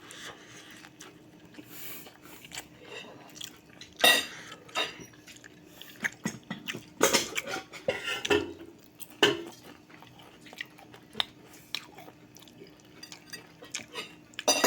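A person eating a meal of dried fish: irregular clinks and knocks of cutlery on a plate, with chewing, over a faint steady hum.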